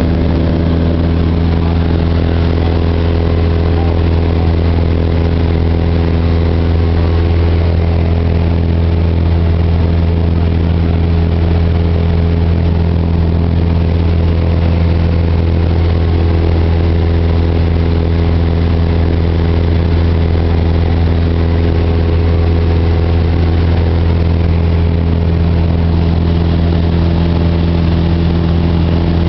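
Cessna 172's piston engine and propeller running steadily in cruise flight: a loud, even drone with a low hum and no change in pitch.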